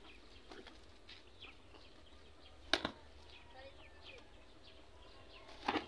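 Quiet outdoor ambience with a few faint, short bird chirps, and a single sharp click about halfway through.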